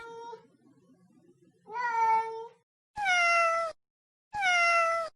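Domestic cat meowing: the end of one meow, then three separate meows about a second apart, the last two falling in pitch.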